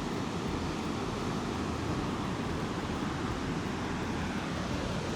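Steady rush of ocean surf on the beach, mixed with wind on the microphone.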